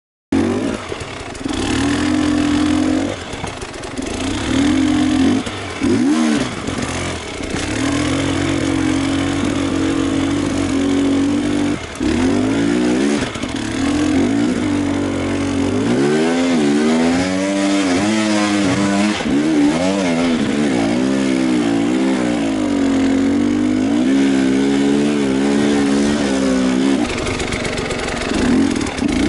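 Enduro motorcycle engine running under load, its revs rising and falling again and again as the throttle is worked on and off. The revs swing widest about halfway through.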